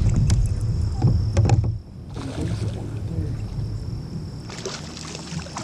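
Sounds from a fishing kayak while a fish is brought in: a low rumble with scattered clicks and knocks that cuts off suddenly about two seconds in, then a quieter, steady hiss with a few more clicks.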